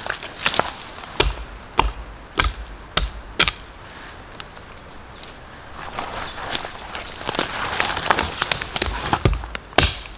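Footsteps on a forest floor: a regular tread of thuds with twig-and-leaf crackle about every 0.6 s, turning into denser crackling and rustling in the second half. A few faint, short high tones sound about five seconds in.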